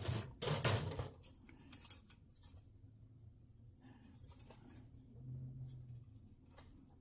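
Plastic model-kit runners and parts being handled on the bench: a cluster of sharp clicks and rustles in the first second, then scattered faint clicks.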